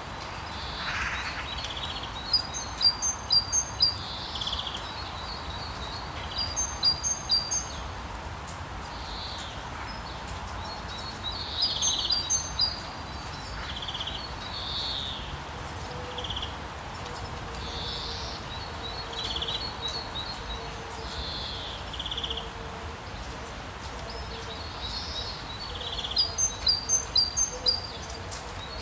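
Rainforest ambience: a steady hiss of rain, with birds calling in short runs of quick high chirps every few seconds and scattered single calls between them. A faint steady drone comes in about halfway through.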